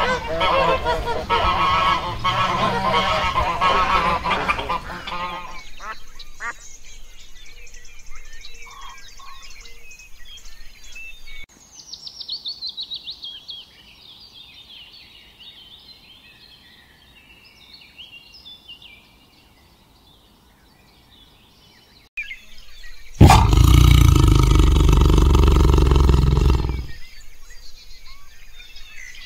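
A swan honking harshly for the first five seconds or so, followed by a quieter stretch with faint high chirping. About 23 seconds in, a white tiger roars loudly for about four seconds.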